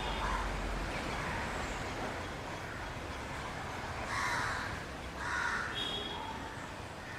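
Short harsh animal calls over a steady background noise, the clearest two about four and five and a half seconds in.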